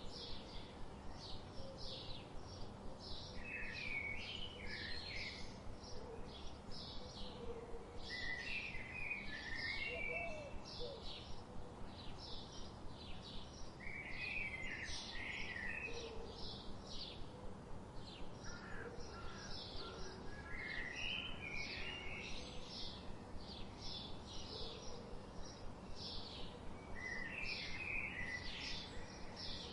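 Songbirds chirping: a rapid, even series of short high chirps, several a second, with a lower warbled phrase breaking in about every five or six seconds, over a steady background hiss.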